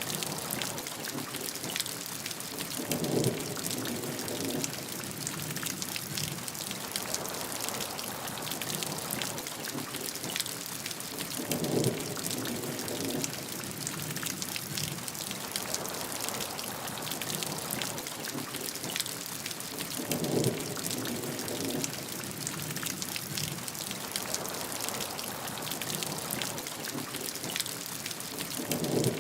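Steady heavy rain, a dense patter of drops. A short lower, louder burst comes back four times at even spacing, about every eight and a half seconds, in the way of a looped recording.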